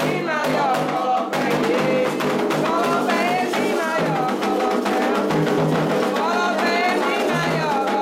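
Candomblé ritual music for Xangô: atabaque hand drums, led by the rum, beating a steady rhythm under singing voices.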